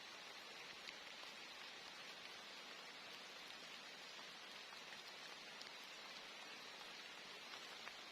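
Steady rain falling, a continuous hiss with many small drops ticking.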